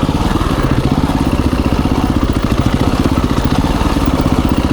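KTM 350 EXC-F dirt bike's single-cylinder four-stroke engine running steadily at low revs while riding, with a dense chugging of firing pulses.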